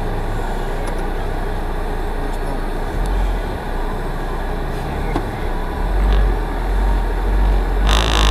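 Low steady rumble of a stationary car with its engine running, heard from inside the cabin. The rumble swells a few times from about three seconds in, and a short hissing burst comes near the end.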